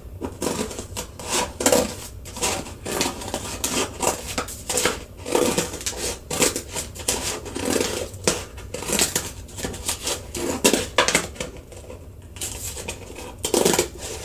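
Scissors cutting the center out of a paper plate: a run of irregular snips and crisp paper cuts, about one or two a second.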